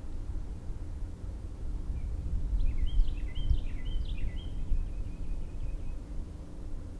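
A songbird sings one phrase of quick, sharply sliding notes that ends in a run of rapid repeated notes, over a steady low rumble.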